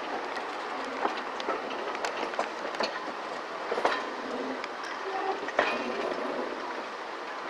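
Railway coach running along the track, heard from outside its window: a steady rumble with irregular sharp clicks and knocks from the wheels on the rails.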